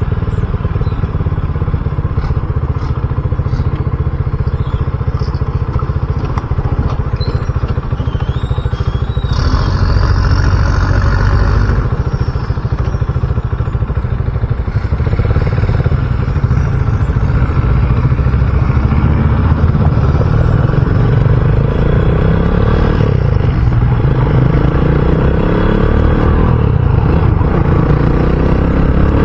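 RUSI Classic 250 motorcycle engine running steadily while riding, with wind and road noise. Near the end the engine pitch climbs as it accelerates.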